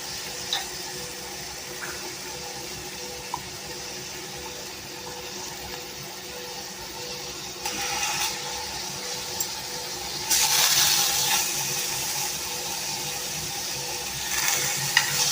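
Chicken seekh kababs sizzling in a shallow layer of oil in a pan, a steady hiss that swells louder three times for a second or so.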